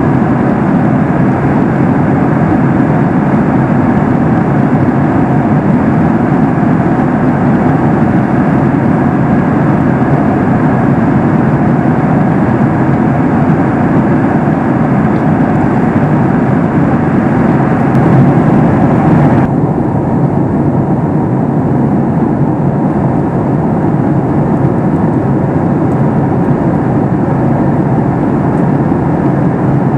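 Steady rush of engine and airflow noise inside the cabin of a Boeing 737 MAX 8 in flight, from its CFM LEAP-1B engines and the air over the fuselage. About two-thirds of the way through, the higher hiss drops away suddenly and the noise turns duller.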